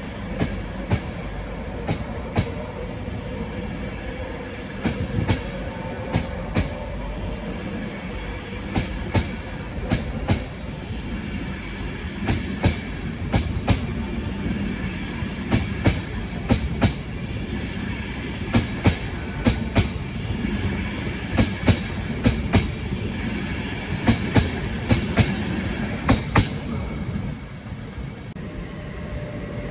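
LNER InterCity 225 train's Mark 4 coaches rolling past at close range: a steady rail rumble with repeated paired clicks as the wheelsets cross rail joints. The rumble fades out about 27 seconds in as the last coach clears.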